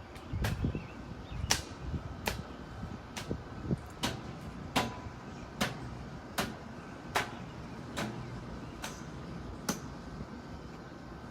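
Hammer striking in a steady rhythm, one sharp blow about every 0.8 seconds, about a dozen blows in all, stopping near the end.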